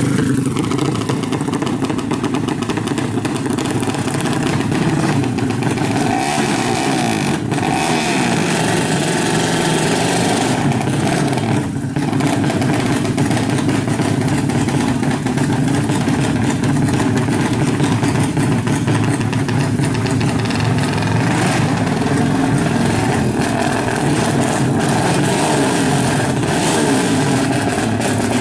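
Yamaha Jupiter Z motorcycle engine, bored out to 200 cc for racing, running loud and steady after coming in abruptly at the start, with small rises and falls in revs.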